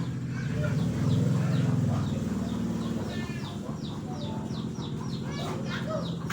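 A bird chirping repeatedly, quick falling chirps several times a second, over a steady low hum that swells for about a second near the start.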